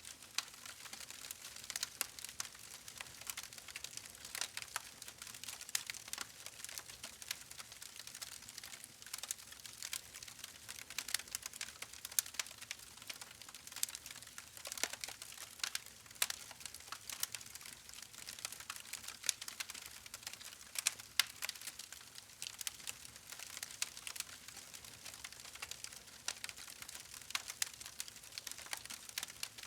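Wood fire crackling: a steady hiss with dense, irregular pops and snaps.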